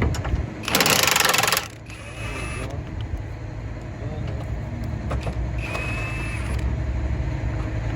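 Tool noise as bolts on the engine are worked loose: a loud, harsh burst about a second in, then two shorter bursts with a thin high whine, one near the start and one past the middle.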